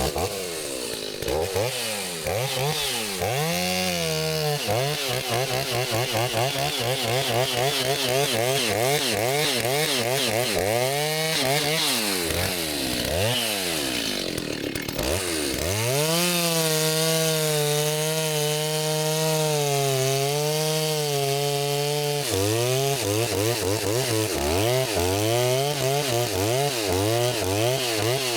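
Gasoline chainsaw engine revving up and down repeatedly. About halfway through it is held steadily at high revs for around six seconds, then it goes back to rising and falling throttle blips.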